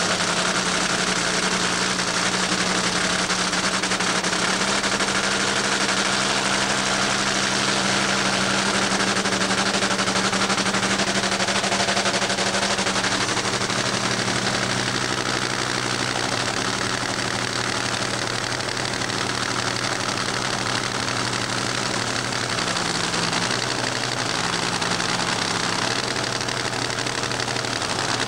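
Supercharged V8 engine of a funny car idling steadily, with a slight dip in pitch about two-thirds of the way through.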